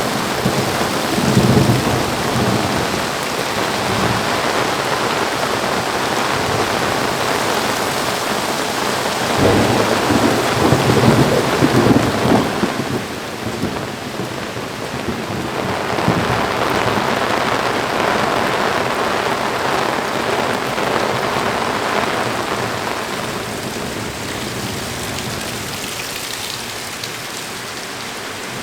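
Heavy rain falling steadily, with rolls of thunder rumbling through it, the loudest about ten seconds in. The rumbling dies down and the storm is a little quieter near the end.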